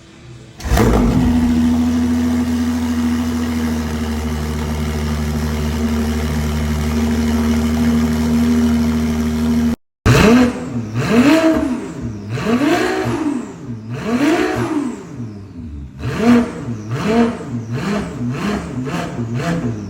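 Ferrari 296 GTB's twin-turbo V6 breathing through an aftermarket Inconel turbo-back exhaust with titanium tips: it starts up and settles into a steady idle. After a short break it is revved in place, first in four long rises and falls, then in a quick series of about six short throttle blips.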